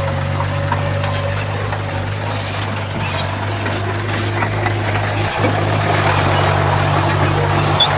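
Heavy diesel construction machinery engine running steadily at a constant pitch, with scattered light clicks and knocks and a rougher grinding noise rising in the second half.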